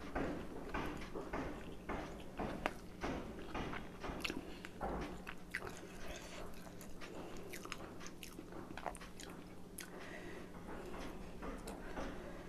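Close-miked chewing and biting of steamed chicken momos, with many short wet mouth clicks and smacks, over a faint steady hum.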